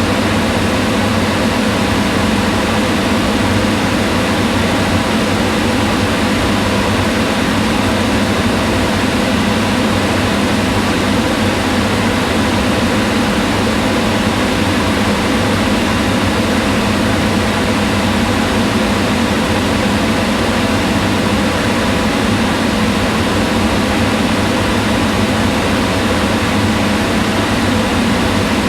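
Kitchen range hood fan running steadily: an even hum and rush of moving air with a few faint steady tones in it.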